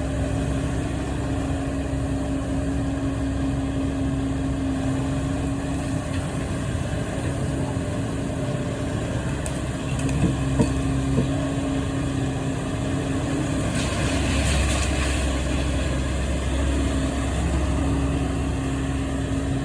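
Heavy demolition machine's engine running steadily, with a few sharp knocks about ten seconds in as the machine tries to knock loose something jammed in its scoop. A short burst of hissing noise comes around fourteen seconds in.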